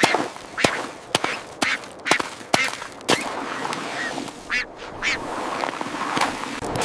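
Repeated short quacking calls, about two a second for the first three seconds, then fewer, with sharp clicks between them.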